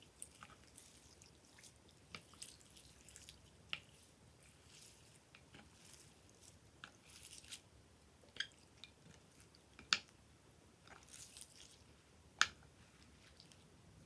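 Slime being squished and worked by hand: faint, irregular wet clicks and crackles, with a few sharper pops, the loudest about ten and twelve and a half seconds in.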